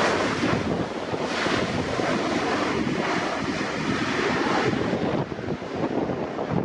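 Strong gusts of wind buffeting the camera microphone, a rough rushing noise that eases about five seconds in.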